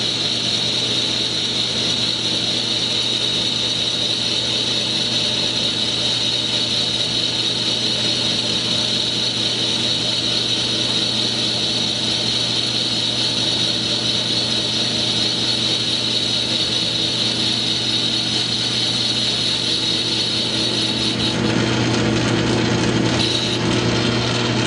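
South Bend lathe running steadily while an insert boring bar takes a light 0.010 in. cut in a cast iron bore: a constant motor hum under a steady hiss. The sound changes about 21 seconds in.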